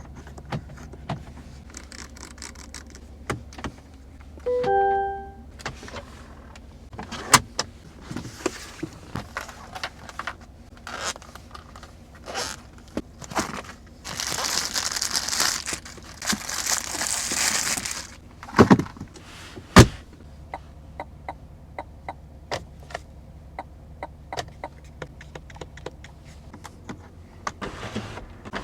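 Cadillac Escalade's controls being worked over a low steady hum: a run of clicks from buttons and switches, a short electronic chime of a few notes about five seconds in, an electric motor whirring for about four seconds past the middle, then two sharp thumps.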